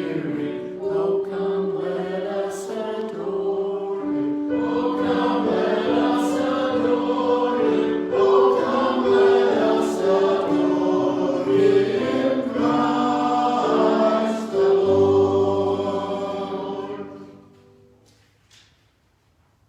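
Choir singing, several voice parts moving through held notes, ending on a long final chord with a low bass note that dies away near the end.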